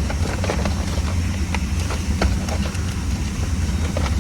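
Steady low rumble of a car idling, heard with scattered light clicks and knocks throughout.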